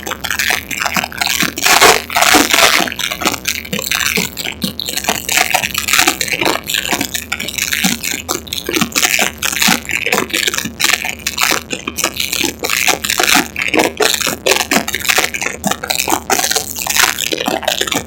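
Harsh, crackling, heavily distorted noise from an overloaded recording, with dense clicks and no clear tune or voice.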